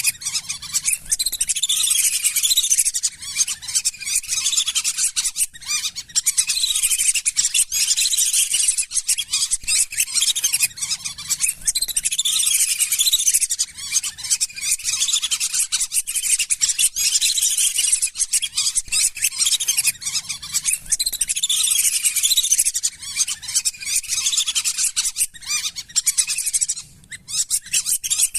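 A flock of lesser whistling ducks calling: rapid, overlapping high whistled calls that keep up almost without pause, as in a duck lure call.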